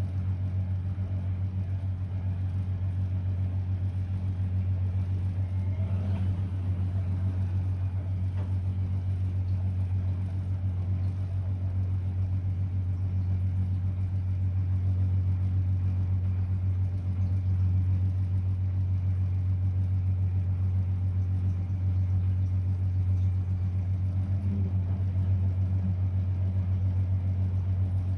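Blomberg WA391 washing machine running mid-cycle with a steady, unchanging low hum.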